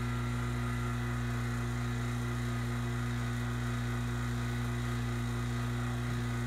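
HVAC vacuum pump running with a steady, even hum, pulling a refrigerant system down to a deep vacuum of about 15 microns.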